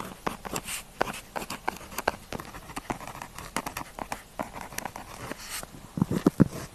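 Pen tip writing on paper: quick, irregular ticks and scratches of the nib, with a couple of longer scratchy strokes. Near the end the taps turn heavier and fuller.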